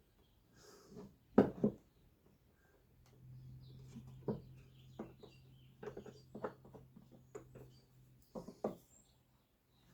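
Irregular sharp clicks and light knocks of small wooden pieces being fitted and fastened, the loudest pair about one and a half seconds in, with a steady low hum from about three to eight seconds in.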